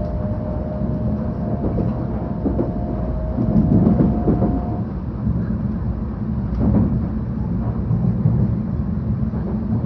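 Inside-cabin running noise of a 700 series Shinkansen: a steady low rumble from the wheels and track, with a faint steady tone that stops about five seconds in.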